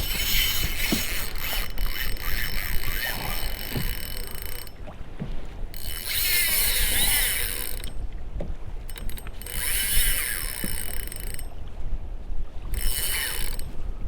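Fishing reel whirring in four spells of a few seconds each, separated by short pauses, as line is cranked in or pulled off it.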